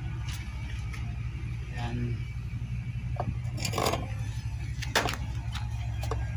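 Metal engine parts handled and scraped during a motorcycle engine teardown: scattered clicks and scrapes, with a short rasping burst about four seconds in, over a steady low hum.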